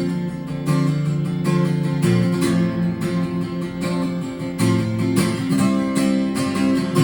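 Live band playing an instrumental passage led by a strummed acoustic guitar, its chords struck in a steady rhythm.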